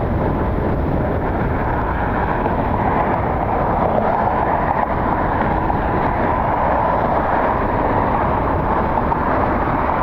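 Jet airliner landing, its engines a steady rushing drone with a band of whine, mixed with strong wind buffeting the microphone.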